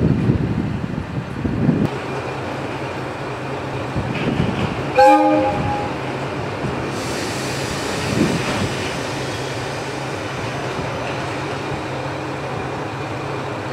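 Aizu Railway diesel railcar rolling to a stop at the platform, its engine running, with one short train horn blast about five seconds in. A steady hiss sets in soon after while the railcar idles.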